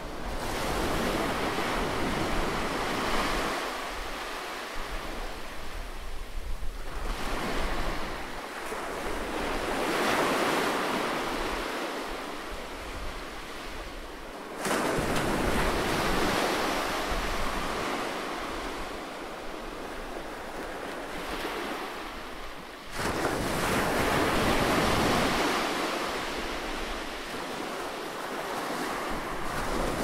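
Ocean surf breaking and washing up a sandy beach: a continuous rushing wash that swells and subsides every several seconds, jumping up suddenly about 15 and 23 seconds in.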